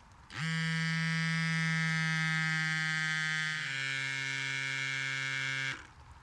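Cordless electric bike pump inflating a freshly plugged tubeless tyre: a steady motor drone that starts about half a second in, drops in pitch about three and a half seconds in, and cuts off shortly before the end.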